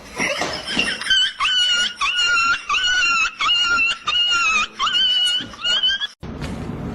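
A dog giving a series of short, high-pitched whining yelps, about two a second, each rising at the start and then held. They cut off suddenly near the end.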